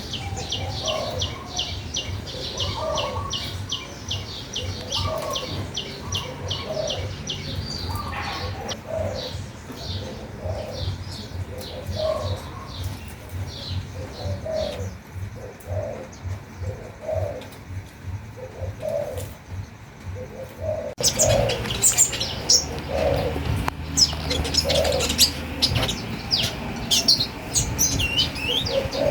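Several songbirds: a rapid run of high chirps about four a second for the first several seconds, then scattered chirps, over a lower call repeated about once a second. About 21 s in the sound changes abruptly to louder, busier chirping.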